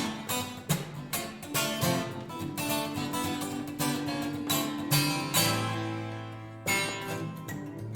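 Acoustic guitar picking the intro of a slow rock ballad, with a cello holding one long low note about five seconds in.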